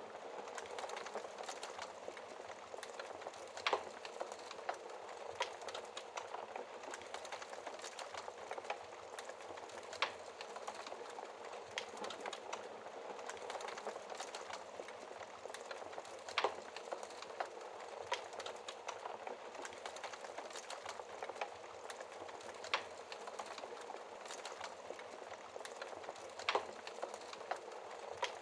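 Fire crackling in a fireplace: a steady hiss of burning dotted with many small crackles, and a sharper pop every few seconds.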